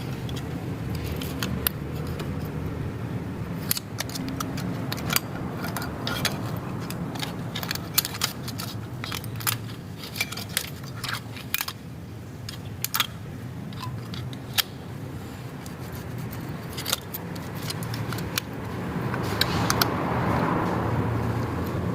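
Hand tools clinking and clicking on metal engine parts, many short sharp strikes at irregular intervals, over a steady low hum.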